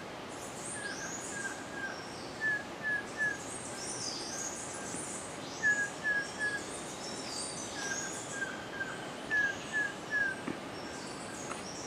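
Tropical rainforest birds calling over a steady background hiss: one bird repeats short whistled notes in runs of three every couple of seconds, while others give high, thin chirps.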